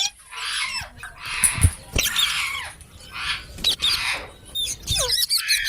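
Green parrots giving a run of harsh, hissing squawks about once a second, with a few short chirps near the end and some light knocks.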